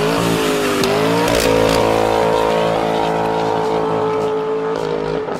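Chevrolet C7 Corvette V8 held at high revs during a burnout, its rear tyre spinning. The revs climb about a second in and then hold a steady high note, with tyre noise over the engine.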